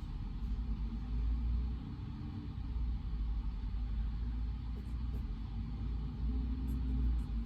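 Steady low rumble of study-room background white noise, with a few faint ticks about five seconds in and again near the end.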